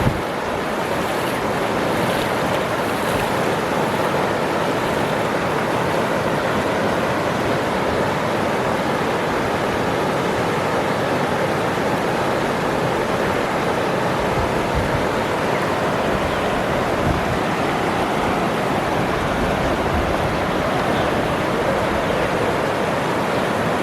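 Waterfall: water rushing and splashing in a steady, dense roar with no change in level.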